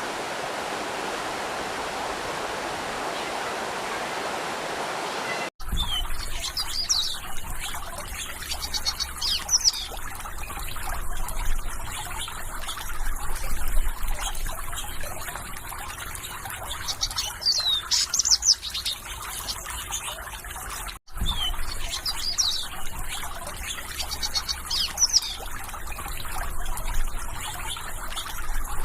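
Steady water noise from a stream or waterfall, then an abrupt cut about five seconds in to trickling water with small birds chirping in quick, repeated high glides. A second abrupt cut comes about two-thirds of the way through, and the trickle and chirping carry on after it.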